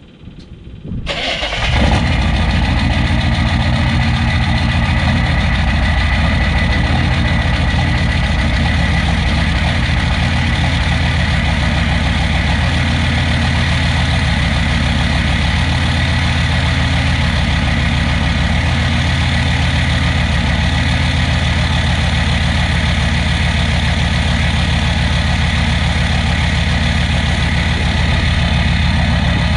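6.5-litre turbo-diesel V8 idling cold through a 4-inch straight-pipe exhaust, loud and steady. The sound comes in abruptly about a second in.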